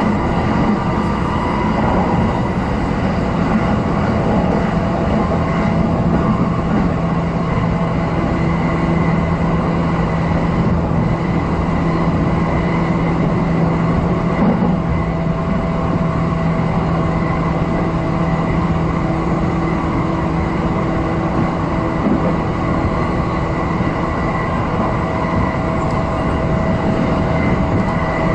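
JR East Tokaido Line electric commuter train running at over 100 km/h, heard from inside the passenger car: steady rolling noise from the wheels on the rails, with steady humming tones from the running gear.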